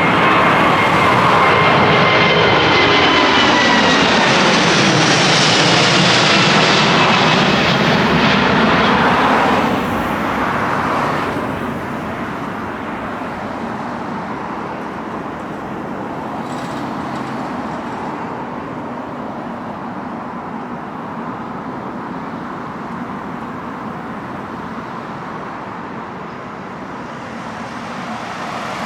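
Jet airliner taking off low overhead: loud engine roar with whining tones that slide down in pitch as it passes, dropping away sharply about ten seconds in to a steady, fading rumble as it climbs out.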